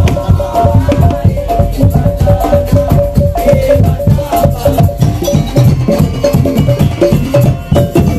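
Daul Madura (tong-tong) ensemble playing: fast, dense drum beats under a repeating melody of short pitched notes on tuned percussion.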